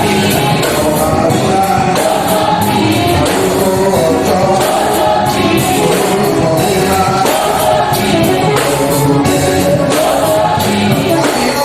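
Church choir singing a gospel song with band accompaniment, the voices carried over a steady percussion beat.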